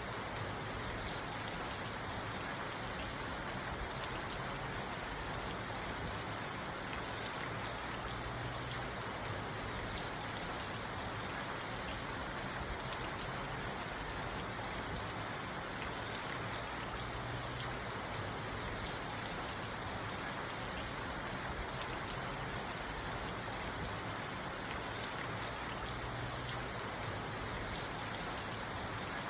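Steady rain falling on a parked car, heard from inside the cabin as an even hiss of drops on the roof and windows.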